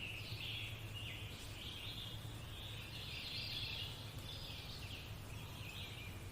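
Nature-sounds background of many birds chirping and twittering without a break, faint, over a low steady hum.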